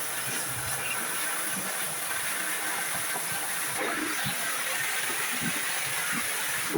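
A steady hiss with a few faint low knocks.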